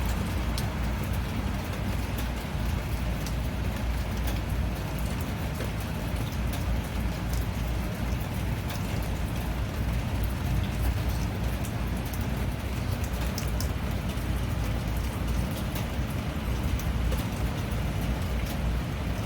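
Steady rain falling, with many scattered sharp drop ticks over a deep, even rumble.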